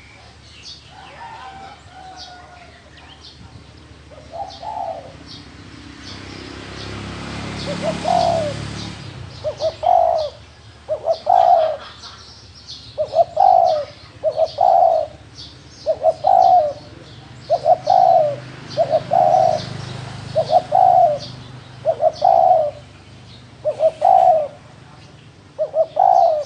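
Spotted dove cooing its low 'gù' call: a steady run of short coos, roughly one a second, some in close pairs. Small birds chirp faintly and high behind it.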